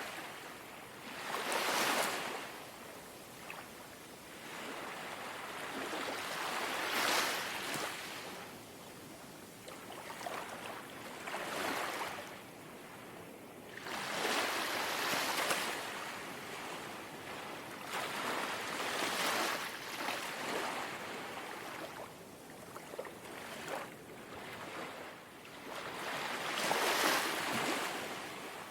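Calm sea waves lapping. A soft wash of water swells and fades every few seconds, with a quieter hiss of water between.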